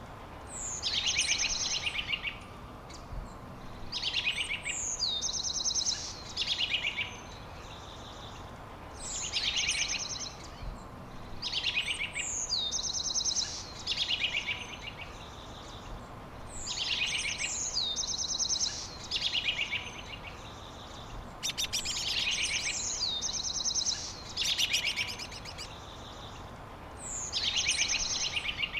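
A songbird singing the same short song over and over, about every two to three seconds: each song is a high down-slurred note followed by a fast trill. A faint steady hiss of outdoor background lies beneath.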